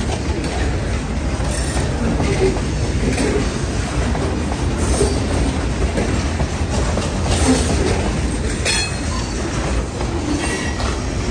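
Freight train of open hopper cars rolling past at close range: a steady rumble of steel wheels on the rails, with sharp clicks every second or two as wheel sets cross rail joints.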